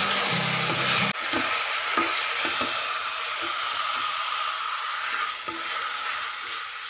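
Chicken pieces sizzling as they fry in a pan, with a utensil stirring and now and then clicking against the pan.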